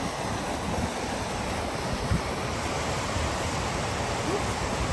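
A mountain river rushing steadily over a series of cascades.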